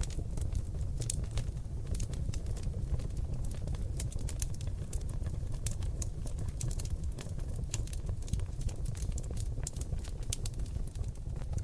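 Seasoned oak logs burning in a fireplace, crackling with many irregular sharp pops over a steady low rumble of the flames.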